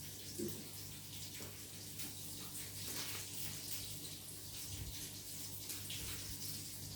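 Food frying in hot oil in a pan, sizzling steadily with fine crackles, over a steady low hum.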